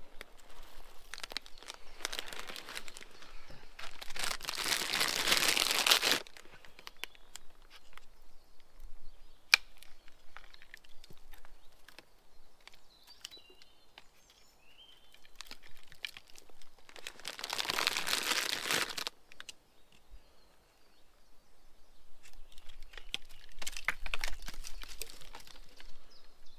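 Crinkling rustles in three bursts of a few seconds each, the first and longest lasting about five seconds, as bird feeders are topped up with feed. A bird chirps faintly in between.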